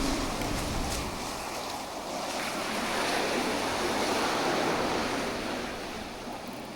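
Sea surf washing onto the beach: a steady rushing that swells a few seconds in and eases toward the end, with wind buffeting the microphone.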